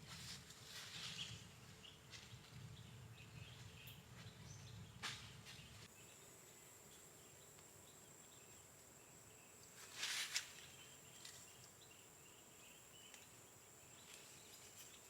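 Faint outdoor nature ambience: a thin, steady high-pitched tone, like an insect, with a few soft clicks, the loudest about ten seconds in.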